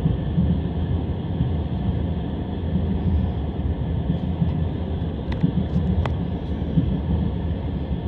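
Steady low rumble of a passenger train heard from inside the carriage, its wheels running on the rails, with a few faint clicks just past the middle.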